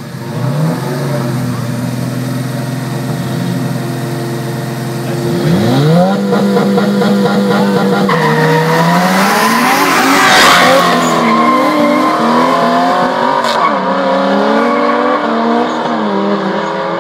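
Two street-racing cars, a turbocharged Honda Integra and a Mustang, held at steady revs side by side, then revving up and launching hard about eight seconds in. The engines climb and drop in pitch as they shift up through the gears, and the loudest moment comes about ten seconds in as the cars run past.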